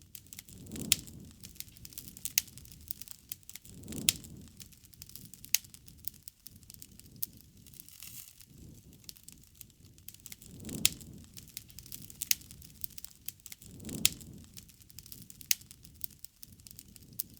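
Wood fire crackling, with irregular sharp pops, a few of them loud. A soft low rush swells and fades every few seconds.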